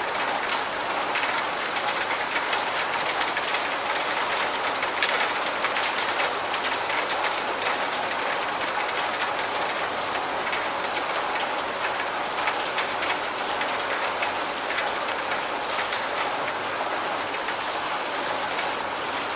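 Steady rain falling: a dense, even hiss with many fine drop ticks on a surface, with no pauses or changes.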